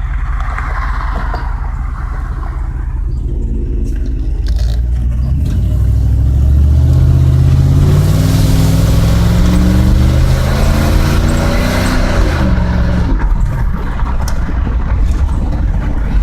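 Truck engine through a dual exhaust with a catalytic converter and no muffler, pulling under acceleration with its pitch rising steadily, then easing off and dropping back about twelve seconds in.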